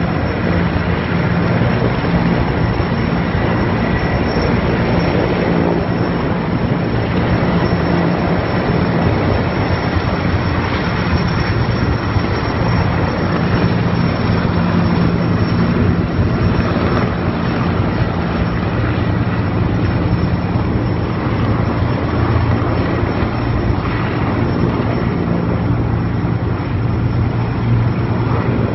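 Erickson Air-Crane heavy-lift helicopter running, a loud steady drone of rotor and turbine engines with a low hum.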